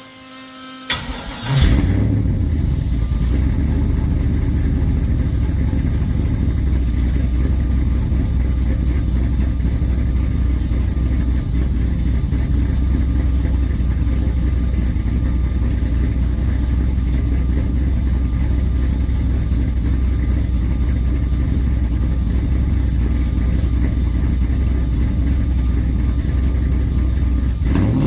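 An LS6 V8 with a 238/242 cam is cranked by the starter, catches about a second and a half in, and settles into a steady deep idle through a 3-inch mandrel-bent exhaust with an X-pipe and Flowmaster 40 mufflers. Near the end the engine begins to rev, rising in pitch.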